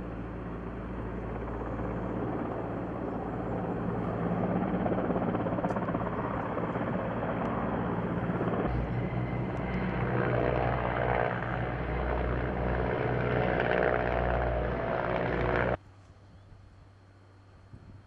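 Firefighting helicopter flying close by, its rotor and turbine making a steady drone that grows a little louder, then cuts off abruptly near the end, leaving faint background sound.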